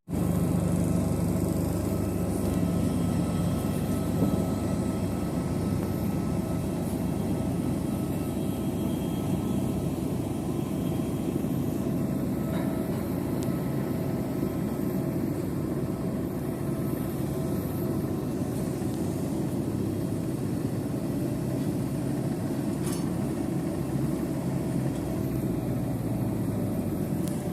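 Turboprop airliner's engines running steadily, heard from inside the passenger cabin as a continuous low hum with faint steady tones over it.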